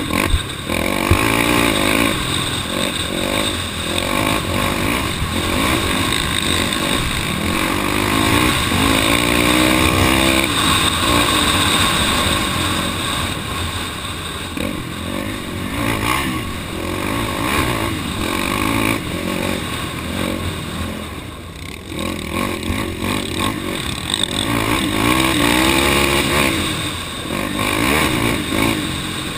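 Off-road vehicle engine running under way, its pitch rising and falling with the throttle, revving up about eight seconds in and again near the end.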